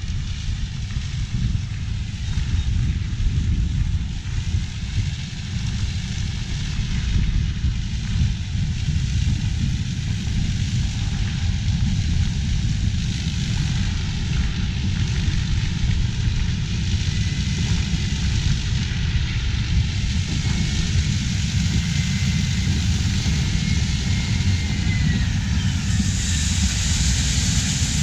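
Heavy diesel harvest machinery running steadily: a deep continuous engine rumble with a rushing noise above it, and a faint high whistle in the second half.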